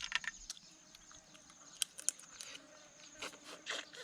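Someone eating papaya salad: irregular wet smacks and crisp clicks of chewing, a cluster at the start and more in the second half. Behind it a faint, steady, high insect trill.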